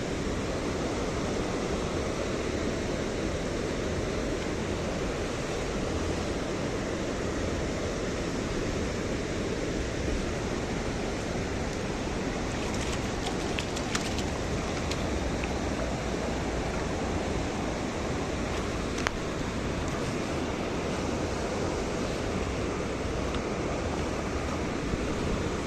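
Steady rushing of a mountain river's flowing water, with a few faint clicks partway through.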